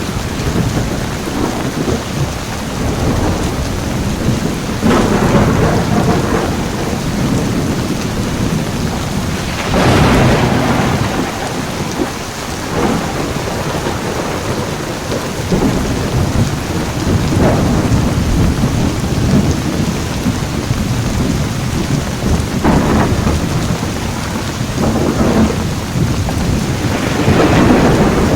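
Heavy rain falling steadily, with thunder rumbling in repeated swells, the loudest about ten seconds in and again near the end.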